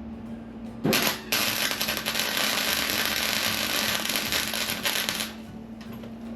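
Welding arc crackling and hissing for about four seconds, starting with a sharp strike about a second in and cutting off suddenly. A steady low hum runs underneath.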